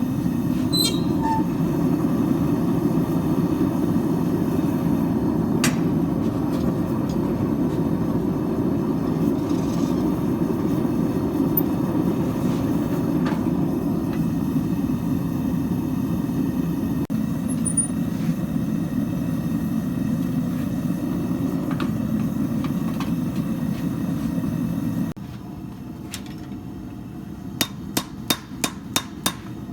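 A steady low rushing noise from shop equipment cuts off suddenly about 25 seconds in. Near the end a quick run of about seven hammer blows rings on steel, several a second.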